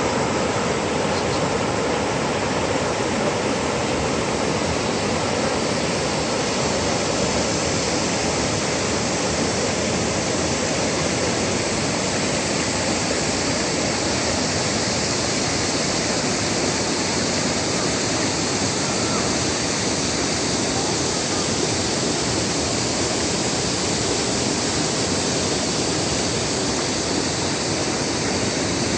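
Steady, loud rush of a mountain valley stream, running high and swollen after heavy rain.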